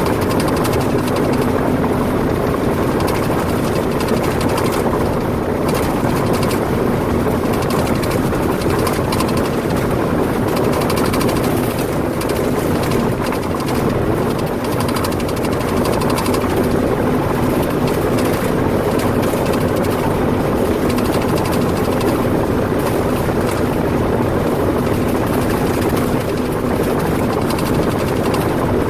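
Tractor engine running with a steady, unbroken drone under load.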